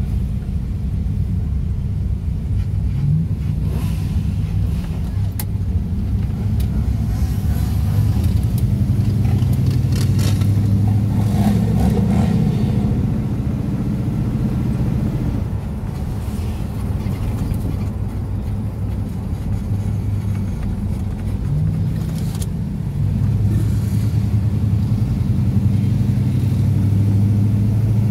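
Car engine heard from inside the cabin, pulling away and gathering speed, its pitch climbing several times as it accelerates, over steady road and wind noise.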